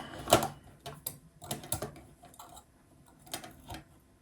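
Light, irregular clicks and taps of small metal and plastic parts being handled as a nut is tightened by hand onto a brass standoff on a robot chassis plate.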